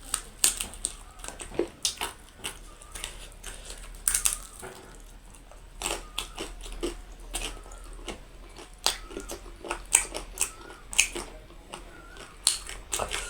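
A person biting and chewing food close to the microphone, with many sharp, irregular crunchy clicks.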